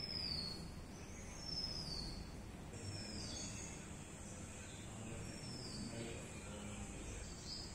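A bird repeatedly giving a short, high whistle that falls in pitch, about every second or two, over faint outdoor background noise.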